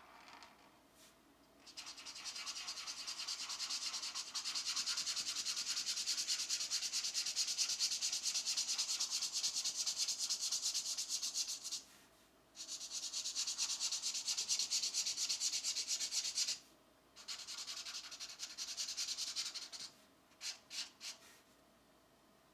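Pencil shading on coloring-book paper: fast back-and-forth strokes making a steady scratchy rubbing in three long stretches with brief pauses between, then a few short separate strokes near the end.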